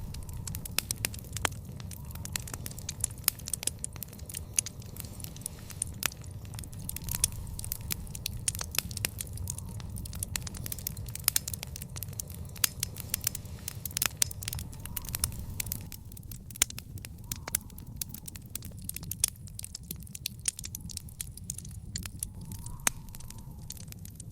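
Fire burning in an outdoor fire pit, crackling with many sharp, irregular snaps over a steady low rumble.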